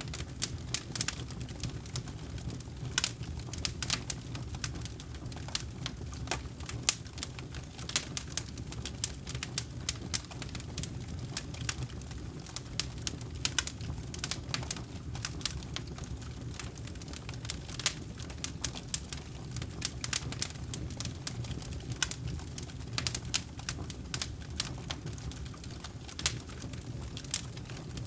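Wood campfire crackling: irregular sharp snaps and pops, several a second, over a steady low rumble of the burning flames.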